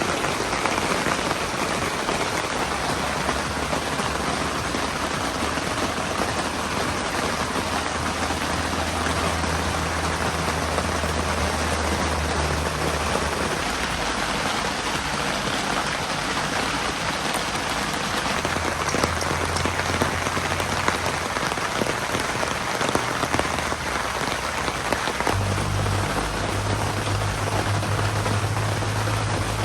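Heavy typhoon rain falling steadily, a dense even hiss with no let-up, with a low hum coming and going underneath.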